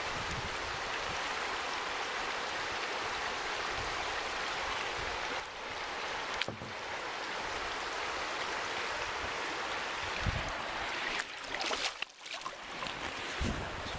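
River water rushing past a kayak in a riffle, a steady hiss, with a sharp knock about six seconds in and a few more knocks near the end.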